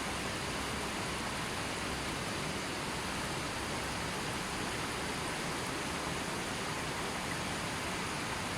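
Gentle river flowing: a steady, even rush of water.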